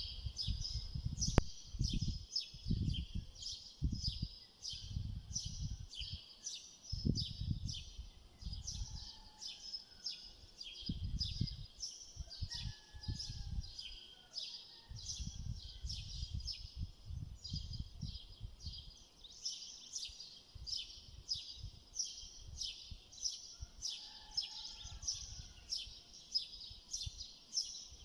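A bird chirping steadily, short high chirps about two a second, over irregular dull knocks and rustles of a knife slicing raw chicken breast on a glass cutting board.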